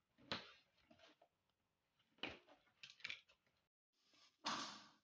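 A few short scraping and rustling handling noises, the loudest about four and a half seconds in.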